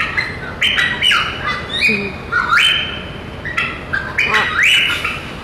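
A small parrot squawking: a string of short calls in quick clusters, some rising in pitch and some held level.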